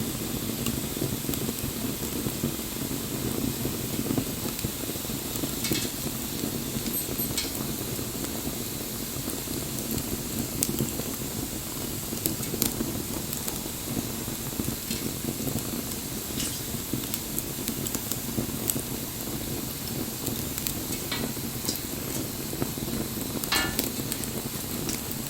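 Wood bonfire burning: a steady hiss and low rumble of the flames, with scattered sharp crackles and pops from the burning wood, including a longer crackling run about 23 seconds in.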